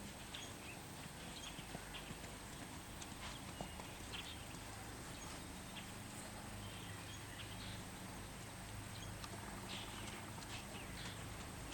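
A horse's hooves stepping on the ground, faint scattered clops, over a faint low steady hum.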